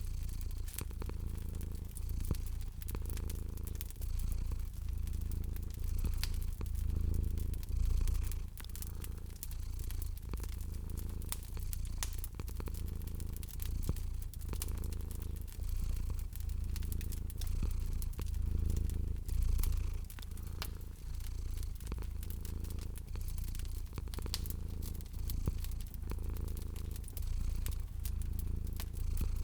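A cat purring steadily, a low rumble that swells and eases with each breath, over the scattered sharp pops and crackles of a wood fire.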